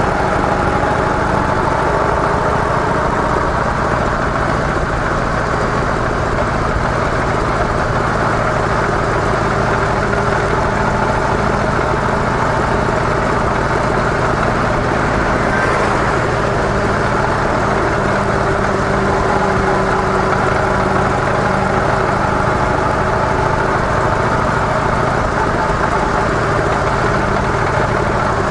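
Harley-Davidson CVO Softail Deluxe's V-twin engine running steadily through its stock mufflers, its pitch drifting only slightly, over a constant rush of noise.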